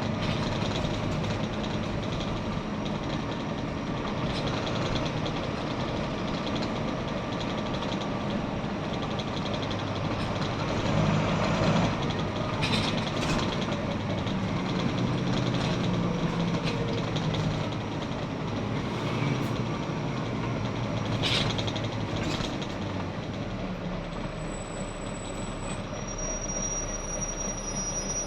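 Volvo B9TL double-decker bus heard from on board, its engine running with changing pitch under road and body noise. A few sharp short hisses or clicks come about halfway through and again later, and near the end the bus goes quieter as thin high squeals sound.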